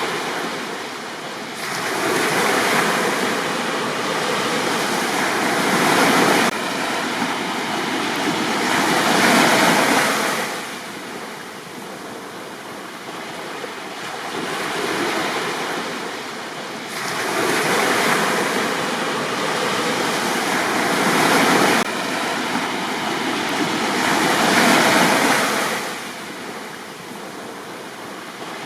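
Sea waves breaking on a beach, the surf hiss swelling and falling away about six times, roughly every four to five seconds.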